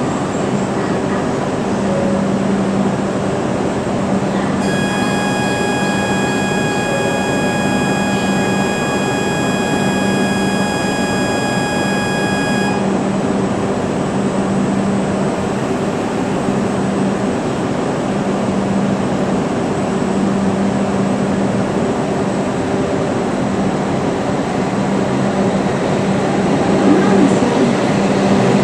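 E7 series Shinkansen train standing at the platform with its steady equipment hum. A steady electronic tone sounds for about eight seconds from about five seconds in. Near the end the train starts to pull away.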